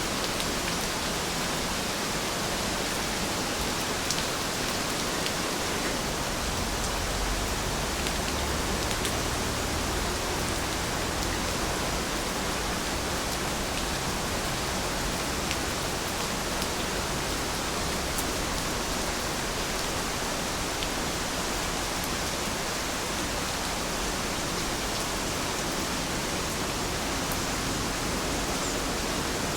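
Steady rain falling, an even hiss with no change in strength, marked here and there by a faint tick of a single drop.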